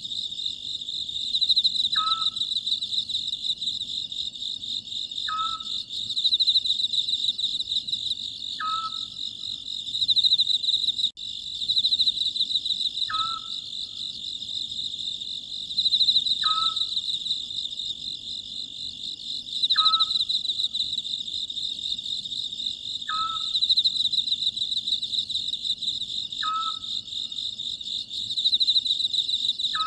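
Oriental scops owl calling a short note with a quick downward slide, repeated about every three and a half seconds, over a steady, pulsing chorus of crickets that is the louder sound.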